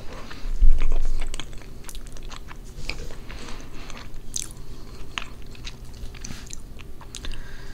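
Close-miked chewing and biting of a mouthful of pernil (roast pork) with rice and beans, with many short sharp clicks of the mouth and teeth. A loud low thump about a second in is the loudest moment.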